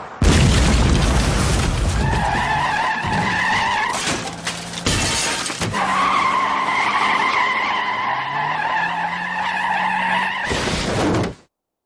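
Cartoon car-crash sound effects: tyres screeching in two long squeals, with crashes and shattering glass between them and vehicle engines running underneath, ending abruptly near the end.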